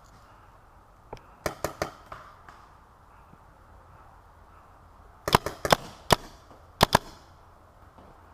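Tacamo Blizzard magfed paintball marker firing in quick groups of sharp pops: three shots about a second and a half in, a string of about five shots a few seconds later, then a quick double shot.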